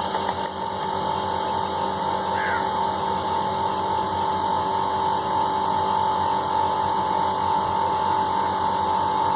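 Single-phase cold-room AC compressor running with a steady hum and a few fixed tones, now that its new starting and running capacitors and relay let it start again.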